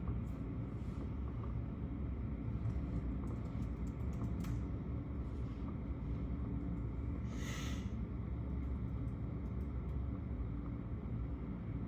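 Rain heard from indoors through a window: a steady low rumble with a few faint ticks and one brief hiss about seven seconds in.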